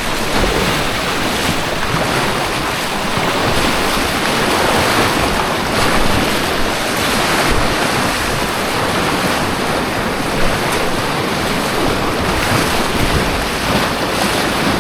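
Loud, steady rush of white water on an artificial white-water course, close to the kayak, with a brief louder hit about ten and a half seconds in.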